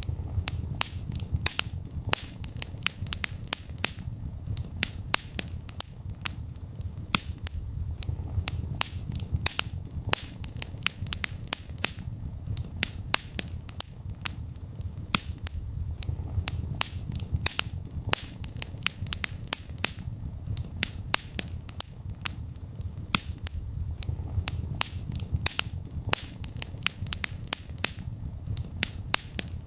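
Wood fire crackling: many sharp pops and snaps, several a second and irregular, over a low, soft rumble of burning that swells and fades.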